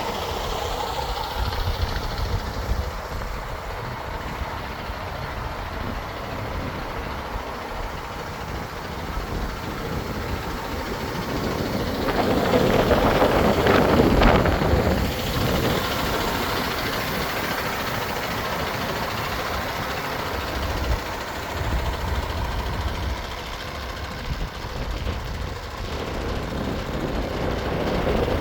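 MAN TGX 26.470 truck's 12.4-litre straight-six diesel idling steadily, getting louder for a few seconds about halfway through.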